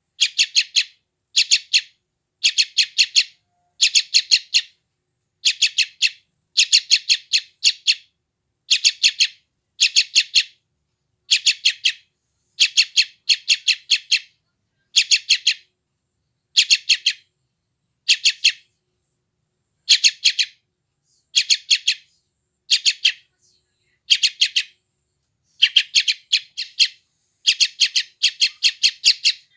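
Yellow-vented bulbul (trucukan) chick giving hungry begging calls: short bursts of a few rapid, high chirps, repeated about once a second with brief gaps.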